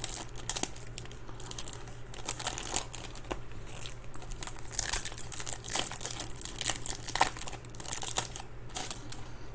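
Foil trading-card pack wrappers crinkling and tearing as packs are ripped open and handled, in a run of irregular sharp crackles and short rustles.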